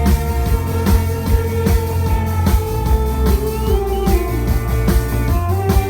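Band music with no singing: plucked guitar over a steady drum beat, with a held melody line that bends in pitch about halfway through.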